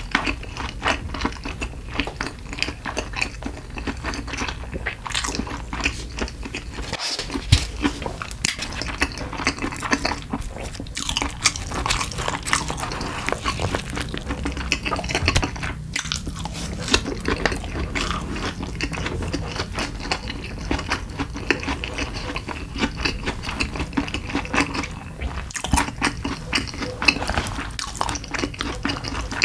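Close-miked chewing and biting of convenience-store lunchbox food (rice and side dishes), with wet mouth sounds and small clicks as wooden chopsticks pick at the plastic tray.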